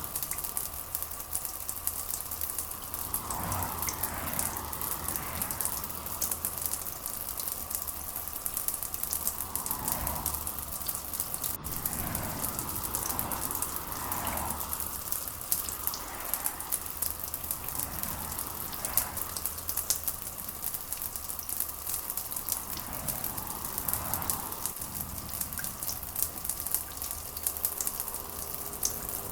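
Steady rain: a dense patter of drops, with a softer wash that swells and fades every few seconds.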